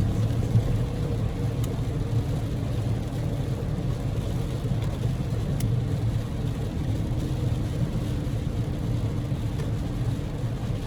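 Cabin noise of a Daihatsu Move kei car with its EF-VE three-cylinder engine driving at steady speed: a continuous low drone of engine and tyres under a steady hiss.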